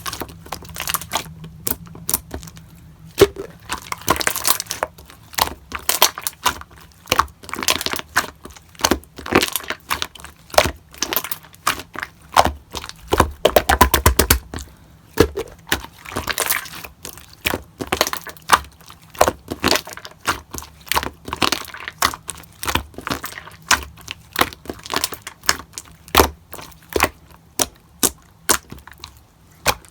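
Hands squeezing and poking slime, giving an irregular string of sharp pops and crackles as trapped air bursts, with a quick dense run of crackles about halfway through.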